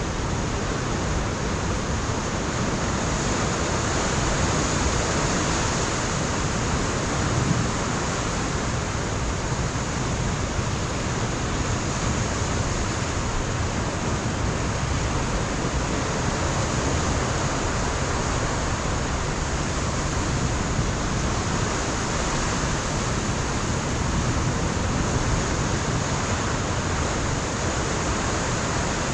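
Ocean surf breaking on a rocky shoreline, heard as a steady, dense wash of noise with little rise and fall.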